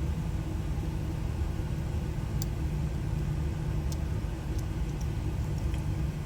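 A vehicle engine idling steadily as a low rumble, with a few faint light clicks over it.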